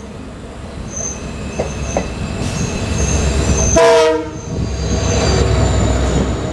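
Steady rumble and wheel noise of trains on adjacent tracks, with one short diesel locomotive horn blast about four seconds in. After the horn the low rumble grows as a WDG4 diesel freight locomotive and its wagons pass close alongside.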